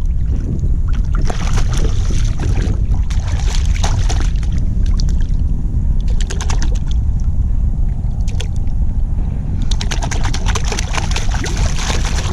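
Wind buffeting a microphone that has no wind sock, a steady low rumble, with water splashing and several bursts of rapid clicking, the densest near the end.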